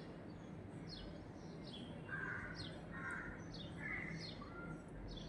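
Birds chirping in the background: a repeating series of short, high, falling calls about once or twice a second, with a few lower chirps between them.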